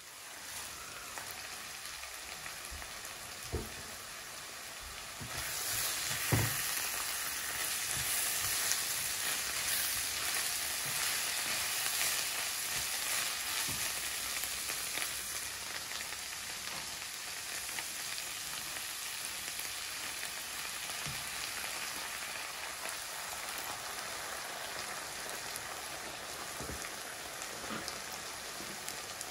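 Food sizzling in a hot frying pan, the sizzle growing sharply louder about five seconds in, with a few soft knocks.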